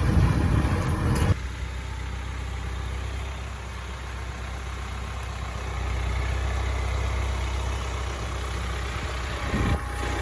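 John Deere 4066R compact tractor's diesel engine running steadily. Louder rushing noise in the first second cuts off suddenly, leaving a low, even engine hum.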